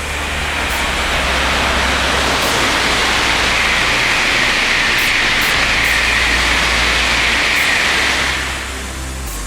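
Tokaido Shinkansen train passing through the station at high speed: a loud rush of air and wheel noise that builds within the first second, holds steady for about eight seconds, and drops off sharply near the end.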